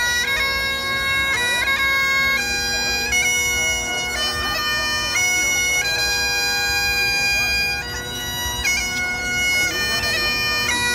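Bagpipes playing a tune: steady drones beneath a melody that steps from note to note.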